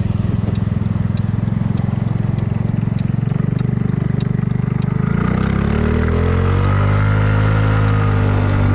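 Kymco People 250 scooter's single-cylinder engine running steadily at low speed, then accelerating: its pitch rises from about five seconds in and holds higher. The exhaust leaks have been sealed with JB Weld high-heat epoxy stick. A light, regular ticking about twice a second stops about halfway through.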